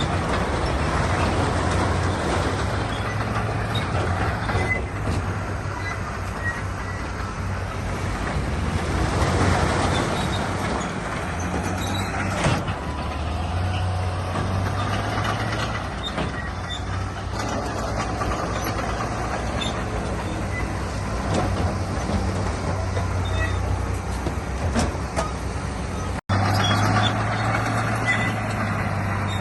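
Heavy diesel earthmoving machinery running, the engine note swelling and easing with the load. A sharp knock comes about twelve seconds in, and the sound cuts out for an instant near the end.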